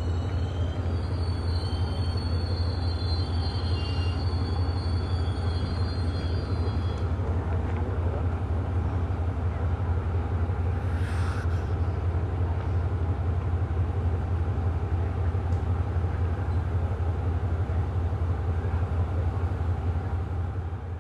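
Diesel passenger train's steady low engine rumble and running noise, with thin high squealing tones over it that stop about seven seconds in, and a short hiss about eleven seconds in.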